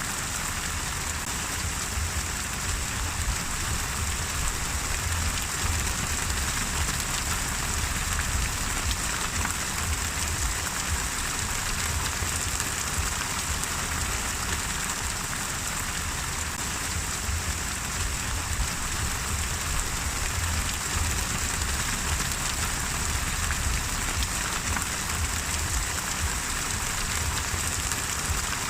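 Steady rain falling on a surface, a constant even patter with no breaks or distinct events.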